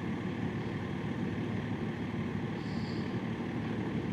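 Steady low engine rumble of heavy machinery running, with a brief faint high tone about three seconds in.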